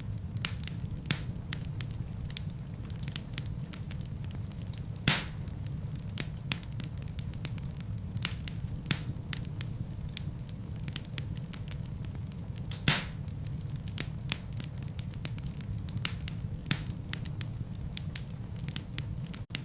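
Wood fire burning in a fireplace: a steady low rumble of flames under frequent sharp crackles, with two louder pops about five and thirteen seconds in. The sound drops out for an instant near the end.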